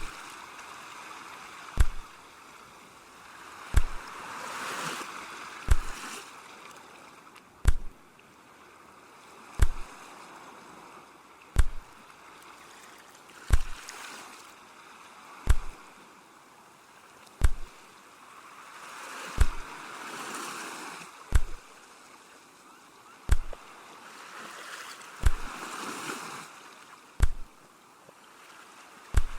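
Sea waves washing in soft swells that rise and fade every several seconds. A sharp, short thump repeats evenly about every two seconds and is louder than the waves.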